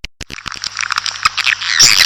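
Recorded swiftlet calls used to lure swiftlets to a nest house: a couple of sharp clicks, then from about a quarter-second in a dense chattering of twittering swiftlet calls builds up and grows louder. A faint low hum lies under it.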